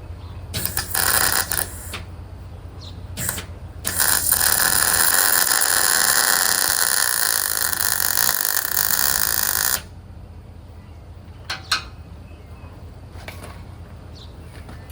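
Electric arc welding on the truck's steel: a few short arc strikes in the first seconds, then about six seconds of steady crackling hiss that cuts off suddenly, over a steady low hum.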